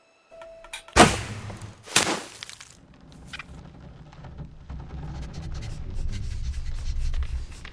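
Two loud crashing impacts about a second apart, each trailing off in a hiss, followed by a low rumble that builds.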